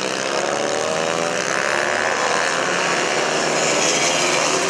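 Several small mini bike engines racing together, buzzing at high revs, with the pitch climbing as they accelerate in the first couple of seconds.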